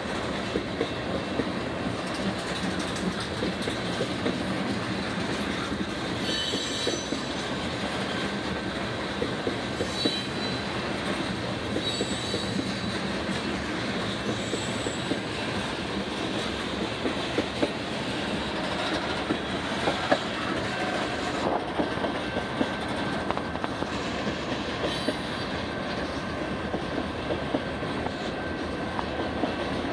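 Freight train tank cars rolling past, a steady rumble of steel wheels on rail with frequent clicks. A few brief high-pitched wheel squeals come between about 6 and 15 seconds in.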